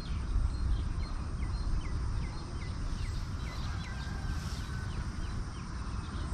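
Outdoor rumble with a bird calling a run of short, falling chirps, about three a second, for the first few seconds, then a brief steady whistle.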